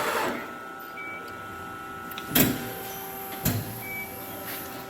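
Amada RG-M2 hydraulic CNC press brake running, a steady hum with a few fixed whining tones, cycling with two sharp clunks about a second apart near the middle.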